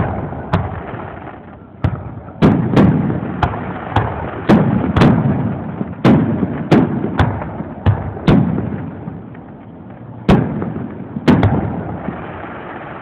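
Aerial fireworks shells bursting in quick succession at a public display, more than a dozen sharp bangs, each trailing off in a rolling rumble, with a short lull about three-quarters of the way through.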